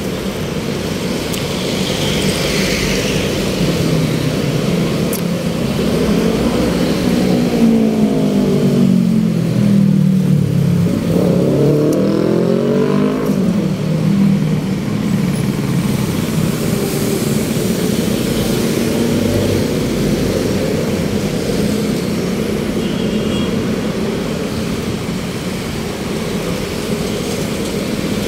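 Steady road traffic noise. A nearby motor vehicle's engine drops in pitch from about seven to ten seconds in, then rises again as it picks up speed.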